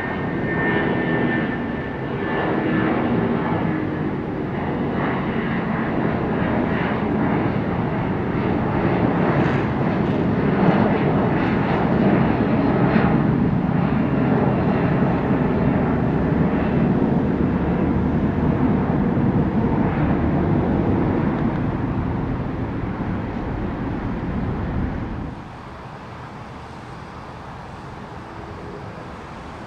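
Jet airliner's engines roaring loudly as it climbs out after takeoff. The roar cuts off suddenly about 25 seconds in, leaving a quieter hum.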